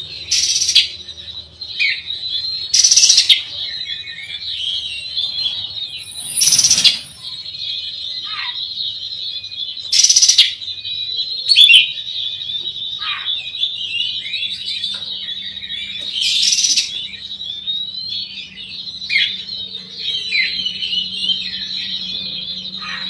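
Oriental magpie-robin (kacer) singing a continuous, varied run of high chirps and trills, broken every few seconds by loud, harsh bursts.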